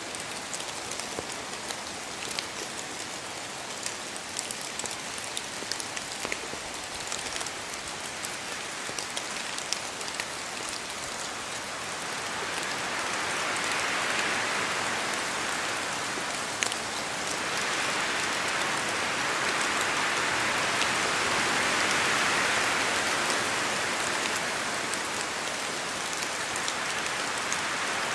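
Steady rain falling on forest foliage, with scattered sharp drip ticks of drops from the leaves. About twelve seconds in, a gust of wind swells through the trees, eases, then rises again before settling.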